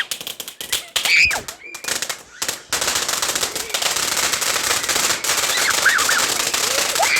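A firework burning, crackling with rapid pops, then from about three seconds in a dense steady hiss of crackling sparks.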